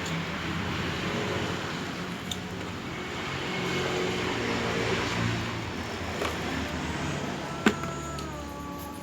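A motor vehicle's engine, growing louder and then fading as it passes, with one sharp click near the end.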